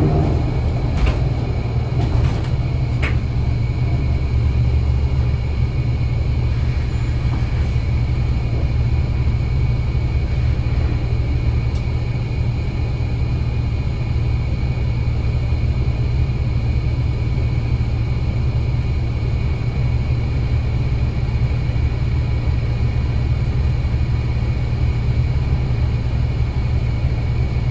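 Scania L94UA bus engine running steadily, a low drone with a few sharp clicks in the first few seconds.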